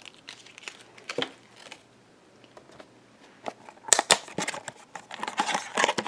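Blind-box packaging being handled and opened: a few scattered light clicks, then from about four seconds in, dense crinkling and tearing.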